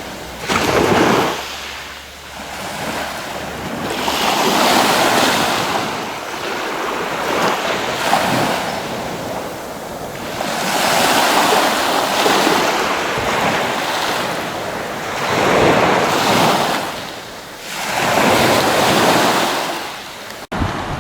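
Sea waves breaking and washing up the shore, swelling and fading in surges every few seconds.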